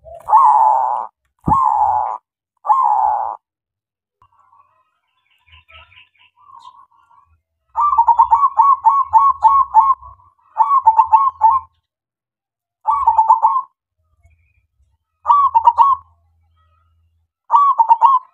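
Male zebra dove (perkutut) cooing: three long drawn notes, then after a pause a fast run of short cooing notes, followed by short phrases of a few notes about every two seconds.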